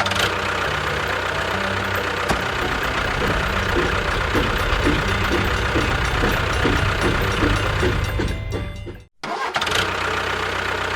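Engine running steadily, with a chugging rhythm in the middle, breaking off abruptly about nine seconds in and starting again.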